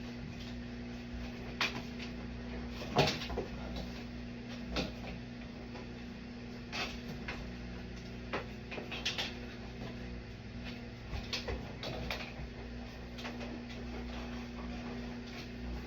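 Scattered clicks and knocks of shower-door hardware being worked loose and handled, the loudest about three seconds in, over a steady low hum.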